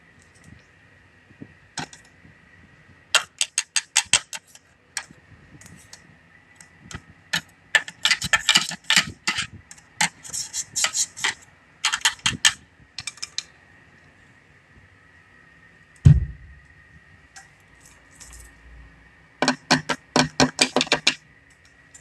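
Metal parts of an aluminium window being worked on: bursts of rapid sharp clicking and rattling in several runs, with one low thump about two-thirds of the way through.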